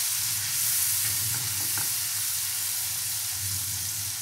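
Spiced yogurt masala with curry leaves and chillies sizzling in hot oil in a kadai, a steady hiss, while it is stirred with a wooden spatula that gives a few faint scrapes.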